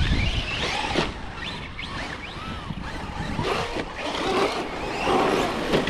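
Electric radio-controlled truck's motor whining, its pitch sliding up and down as the throttle is worked, with a few sharp knocks.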